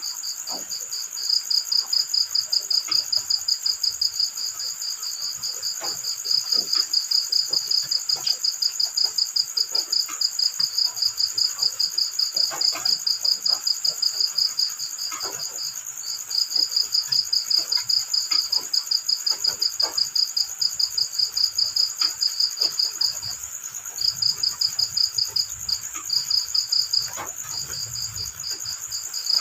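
Cricket chirping in long trains of rapid pulses, with a few short breaks near the end, over faint scattered ticks.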